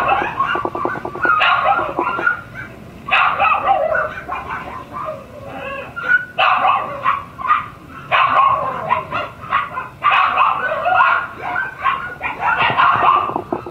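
Shiba Inu puppies barking and yipping in quick high-pitched bursts, with some whimpering, pausing briefly a couple of times.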